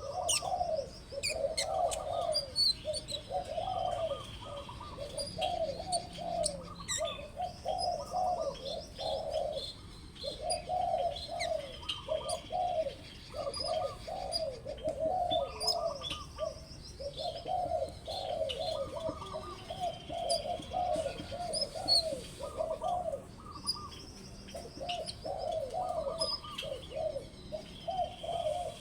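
Birds calling: a steady run of short, repeated low cooing notes, with high chirps and thin trills from a smaller bird over the top.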